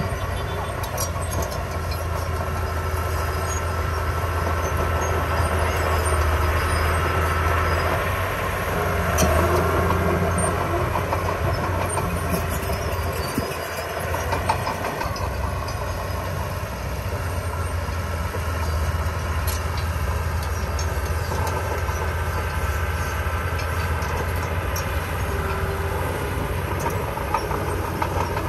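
Small crawler bulldozer's diesel engine running under load, with the clanking rattle of its steel tracks; the engine dips briefly about halfway through.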